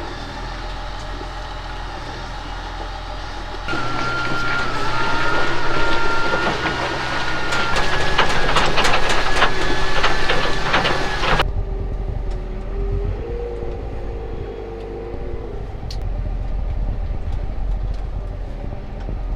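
A vehicle engine running with a steady low hum. For several seconds in the middle, a louder stretch brings a high sustained whine and rapid rattling and clanking, which stops abruptly. A lower wavering tone follows.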